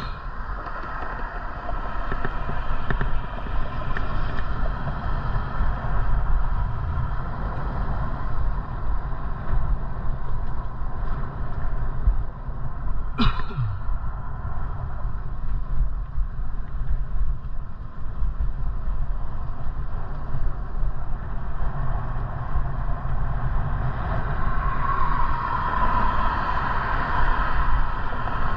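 Steady wind and road rumble while riding a bicycle. About halfway through, a brief sound falls sharply in pitch.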